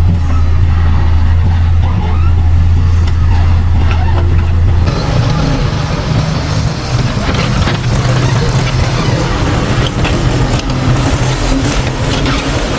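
Heavy diesel engine running with a steady low drone; about five seconds in, the sound changes abruptly to a rougher, noisier engine note.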